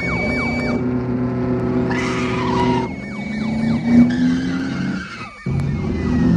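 V8 muscle-car engines running hard at high speed in a chase, with tyre skidding and squeal over them. The engine pitch rises and falls, with a brief loud peak about four seconds in and a short drop just after five seconds before the sound cuts back in.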